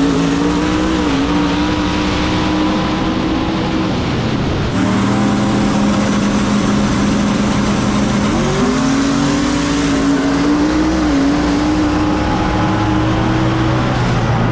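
Racing vehicle engine running hard at steady high revs. About four seconds in the pitch drops with a brief break, and it climbs back up about eight and a half seconds in.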